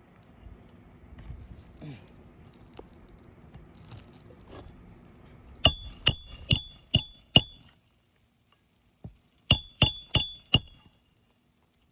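Roofing hammer striking a steel roof snake to drive a nail under a lifted asphalt shingle: five quick, ringing metal-on-metal strikes, a short pause, then four more. Faint handling and scraping on the shingle comes before the strikes.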